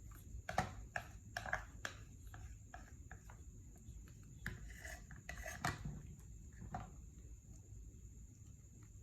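Scattered light clicks, taps and rubbing sounds of small things being handled, with a few louder clicks about half a second in and again around five to six seconds in.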